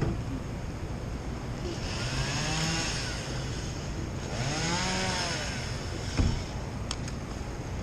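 Chainsaw revved up and back down twice, each rev lasting a little over a second, over a steady low rumble. A short thump comes about six seconds in.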